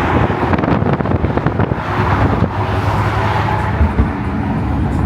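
A car under way: its engine runs steadily under loud road and wind noise.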